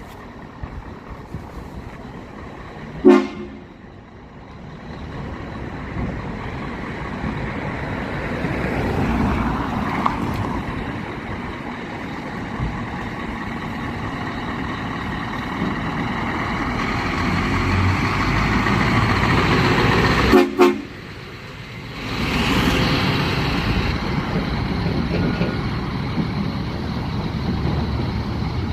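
Scania R-series V8 truck running, its noise building steadily, with a short horn toot about three seconds in and two quick toots about twenty seconds in.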